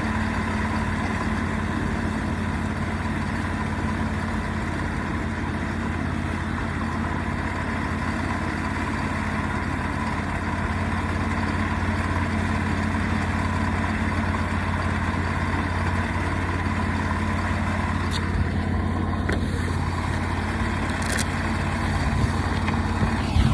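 Portable sawmill's engine running steadily under load as it saws through a walnut log, the sound shifting a little near the end as the cut finishes.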